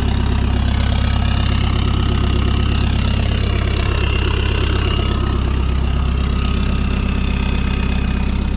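2018 Mahindra Thar's diesel engine idling steadily just after a cold start in sub-zero cold.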